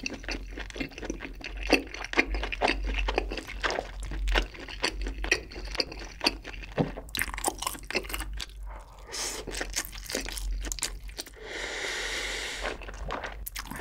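Close-miked mouth sounds of a person chewing spicy braised chicken and rice, a dense run of wet clicks and smacks. Near the end comes a long breath out through the parted lips.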